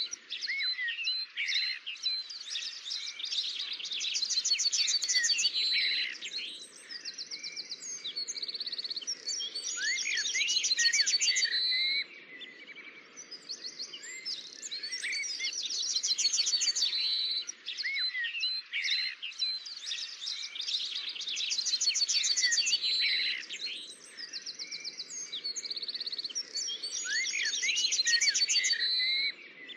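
Several birds chirping and singing in fast trills and short chirps, the chorus swelling about every six seconds.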